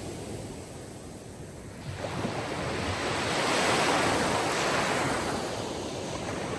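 Sea waves breaking and washing onto a shore. One wave swells up about two seconds in, is loudest near the middle, and draws back toward the end.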